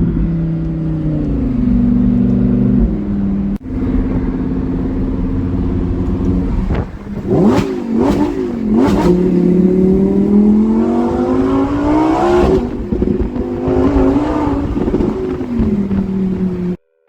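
Lamborghini Huracán Evo Spyder's V10 engine running hard, with the revs dropping early on and several quick swings up and down about halfway through. A long rising pull follows, then steadier running until the sound cuts off abruptly near the end.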